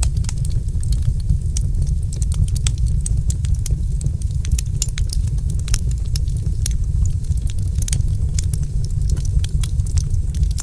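Wood fire crackling, with many quick, irregular sharp pops and snaps over a steady low rumble.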